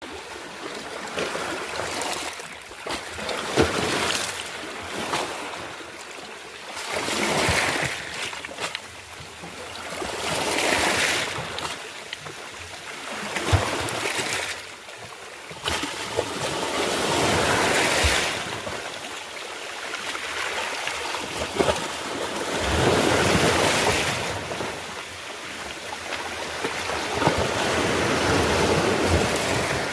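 Sea waves washing in and drawing back, the rush swelling and falling every few seconds, with a few brief sharp knocks or splashes.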